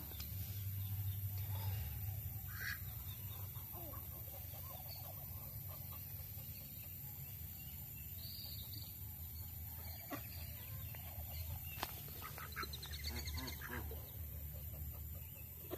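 Ducklings peeping in short scattered calls, with a quick run of repeated chirps near the end and a single sharp click shortly before it.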